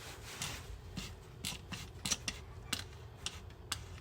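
Hand-operated fluid pump worked slowly, its plunger giving irregular clicks and creaks, about two a second, as fluid is pumped into the automatic transmission's fill hole.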